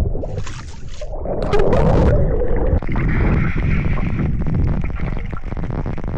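Wind rumbling and buffeting on the microphone aboard a boat, with two short hissing bursts in the first two seconds, then a steady rush.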